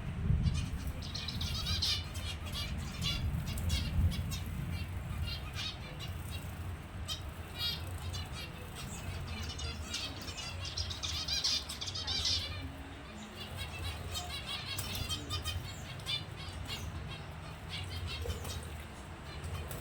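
Finches twittering in many short, high chirps while their wings flutter as they bathe, over a steady low rumble.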